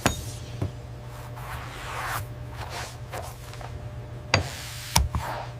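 A few sharp knocks or clicks, with a soft swish about two seconds in, over a steady low hum.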